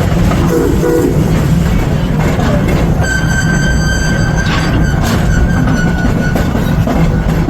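Narrow-gauge 4-4-0 park train running with a steady rumble; about three seconds in a high, steady tone starts up and holds for about four seconds before fading.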